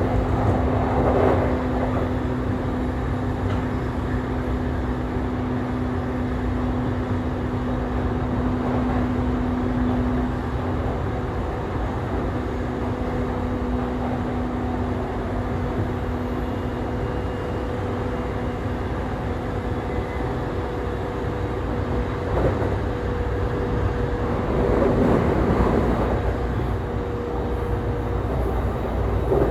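JR East E531 series electric train running at speed between stations: a steady rumble of wheels on rail with a constant low hum that fades out after about ten seconds, and a few brief louder surges of rail noise, the longest near the end.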